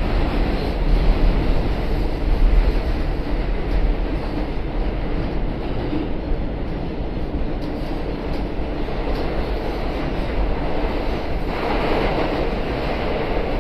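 Interior of an R211T subway car running through the tunnel: steady rumble of wheels on rail and running gear. A louder rushing swell comes about twelve seconds in.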